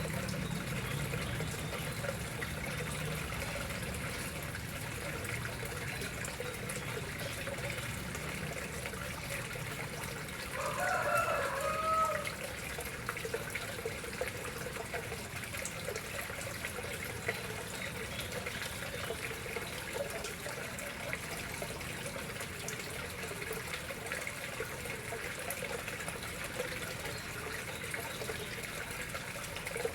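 Water flowing steadily into a koi pond, an even trickling rush. About ten seconds in, a single loud animal call, under two seconds long, rises over it.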